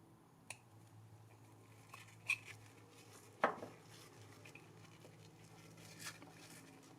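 Small hard parts and tools being handled: four light clinks and knocks, the loudest about three and a half seconds in, over a faint low steady hum.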